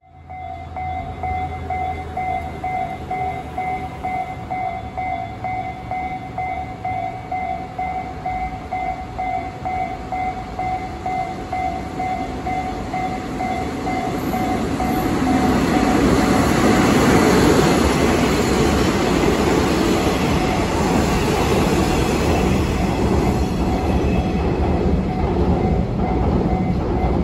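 Level-crossing warning bell ringing in a steady, repeating two-tone pattern. About 15 seconds in, a DD51 diesel locomotive hauling a delivery train passes close by: its engine and wheels on the rails swell up over the bell and stay loud to the end.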